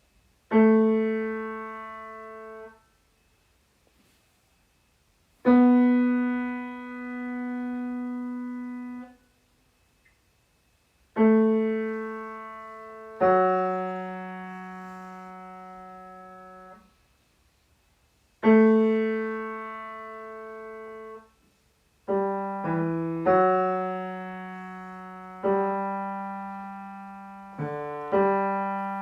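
Piano playing slow single notes, each struck and left to fade, with pauses of a few seconds between them at first and the notes coming quicker near the end.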